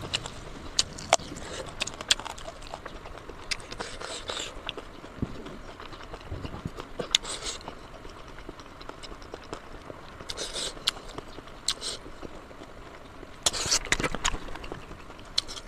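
Close-up eating sounds of a person chewing pork: irregular mouth clicks and smacks with short hissy bursts, thickest near the end.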